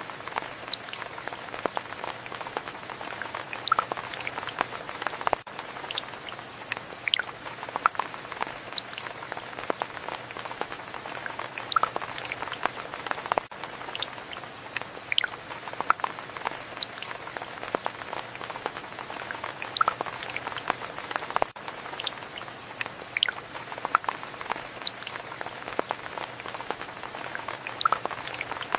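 Steady rain falling, with many separate drops ticking and dripping close by.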